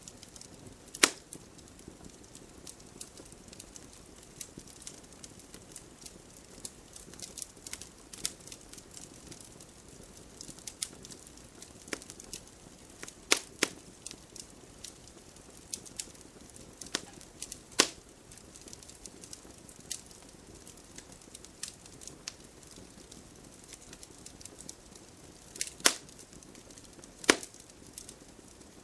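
Wood campfire crackling: a steady scatter of small ticks and snaps, with about five much louder pops, over a faint low hiss.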